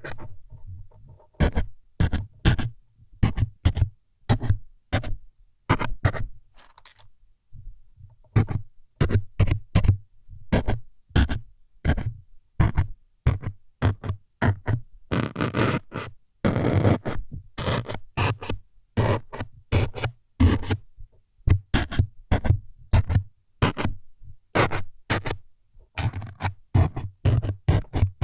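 ASMR 'needle-stabbing' sounds: short, sharp scraping stabs in quick irregular succession, about two a second. About halfway through they run together into a longer scratchy stretch.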